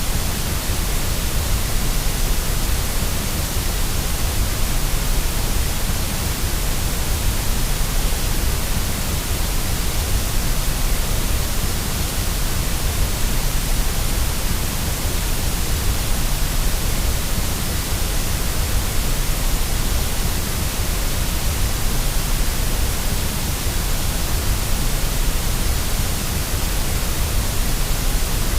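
Steady, unchanging white noise, a constant hiss with a strong low rumble beneath it, used as a sleep sound for a fussy baby.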